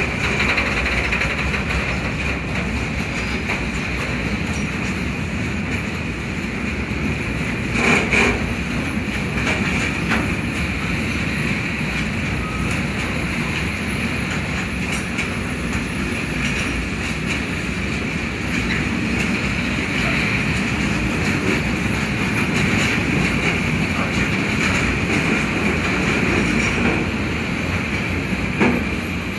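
Freight train of grain wagons rolling past, with a steady rumble of wheels on rail and a constant high ringing over it. There are sharp knocks about eight seconds in and again near the end.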